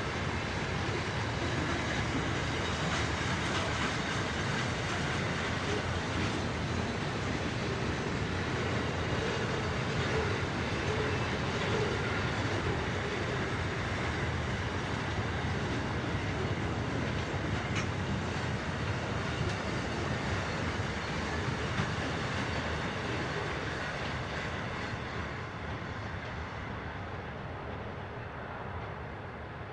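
Double-stack container freight train's wagons rolling past on the track, a steady rumble and clatter of wheels that fades gradually near the end as the train moves off.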